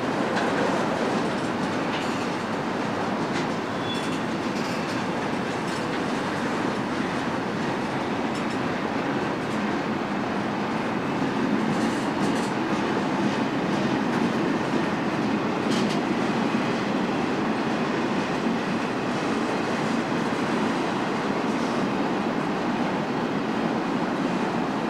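Union Pacific intermodal freight train's cars rolling steadily past on the rails, a continuous rumble of steel wheels on track with a few scattered sharp clicks.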